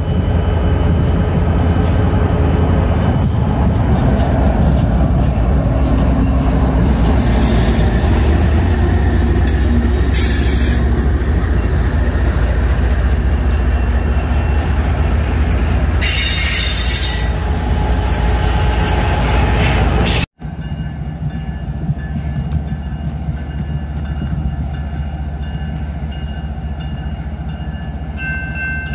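Freight train passing close by behind BNSF diesel locomotives: a loud low rumble of engines and wheels on rail, with stretches of high wheel squeal. It cuts suddenly to the same train heard farther off, a lower steady rumble, and several steady high tones start near the end.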